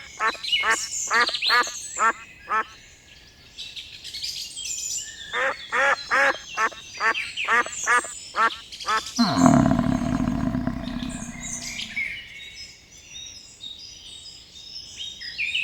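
A farm bird calling in two quick runs of short repeated calls, about three or four a second, with small chirps behind. About nine and a half seconds in, a loud, low, noisy sound cuts in and lasts a couple of seconds.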